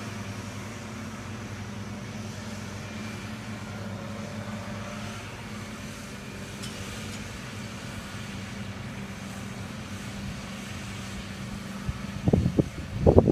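Tractor engine running steadily with a constant low drone. Near the end a few short, louder sounds break in over it.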